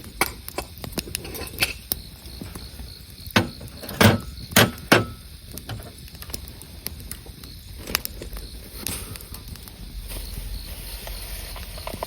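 Wood fire crackling with scattered sharp pops, and a few loud snaps about four to five seconds in.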